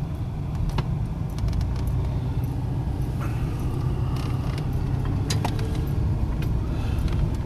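Car running along the road, heard from inside the cabin: a steady low engine and road rumble, with a few light clicks and rattles.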